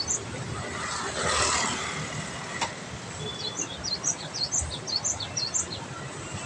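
A small bird chirping, a quick series of short, high notes repeated about two or three times a second, over a steady outdoor background hiss. About a second in there is a brief rush of noise.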